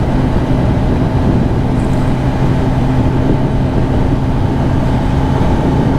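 Kawasaki ZX10R's inline-four engine running at a steady cruising speed under a rush of wind and road noise.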